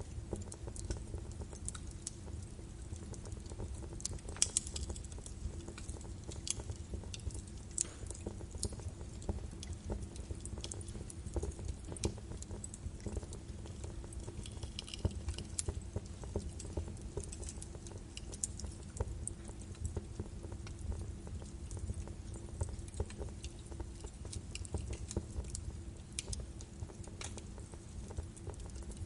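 Birch wood fire crackling in a fireplace: irregular sharp pops and snaps, a few louder ones, over a soft low rumble of the flames.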